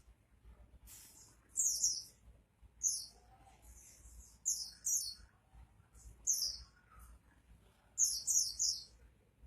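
A white-eye (pleci) singing in short, very high twittering bursts of quickly falling notes, about six bursts spaced a second or so apart. The busiest burst comes near the end. The bird is in full, frequent song (gacor).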